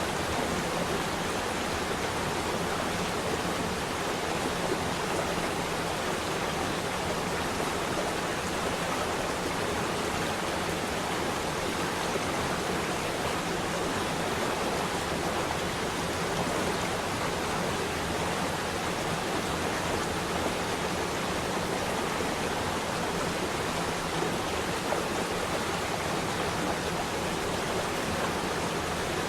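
Water flowing steadily over rocks in a stream or small waterfall, a continuous even rush with no change.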